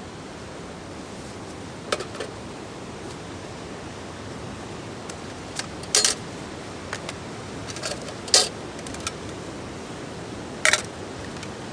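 Steady hissing background noise with a handful of sharp clicks and clinks, as of hard objects being handled or set down; four stand out, about two seconds apart.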